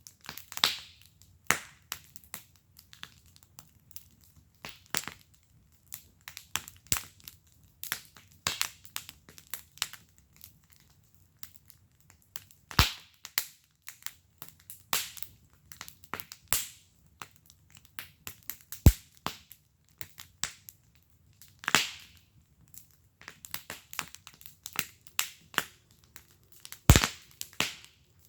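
Wood fire burning in a fire pit, crackling with irregular sharp pops and a few louder snaps.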